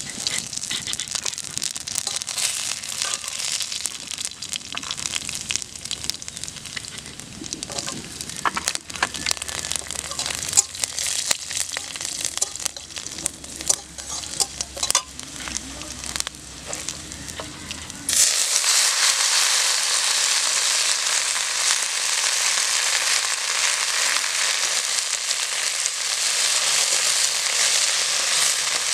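Black cumin seeds and garlic cloves crackling and spitting in hot oil in a metal wok, stirred with a spatula. About eighteen seconds in it changes abruptly to a louder, steady sizzle of green leaves frying.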